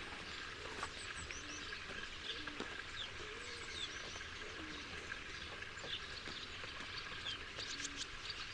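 Quiet farmyard ambience: small birds chirping and twittering in short calls, busier near the end, over a faint steady background.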